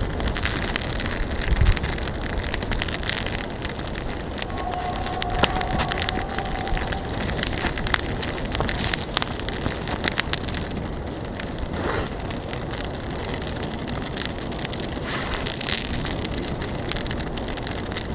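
Campfire crackling: many sharp snaps and pops over a steady hiss of burning.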